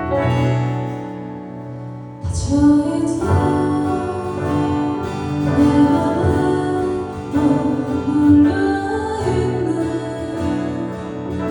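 Live pop band music: a sustained keyboard passage, then about two seconds in the full band comes in with a crash and keeps playing.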